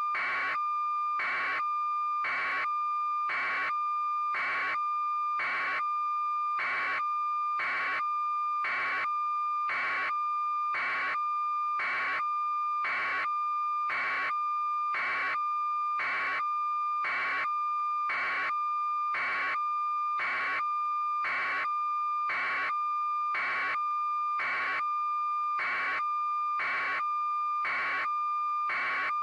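Steady high electronic tone with a pulsing beep about once a second, repeating evenly and unchanged throughout, like an alarm or a test signal.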